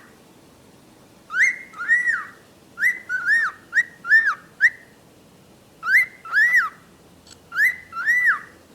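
Pet bird whistling: short calls, each rising and then falling in pitch, given in bursts of two to five with brief pauses between.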